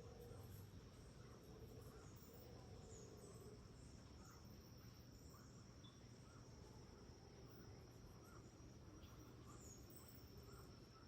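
Faint tropical rainforest ambience: a steady high insect drone with scattered short chirps and calls from birds or insects.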